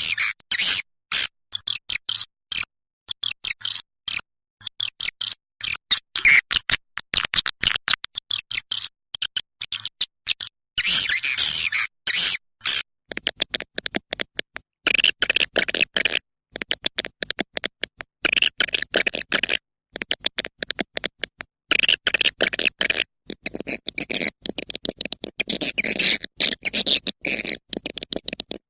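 Swiftlet calls from a lure recording: a fast, continuous run of short high-pitched chirps and twitters broken by tiny gaps, with a lower buzzy layer joining about halfway through.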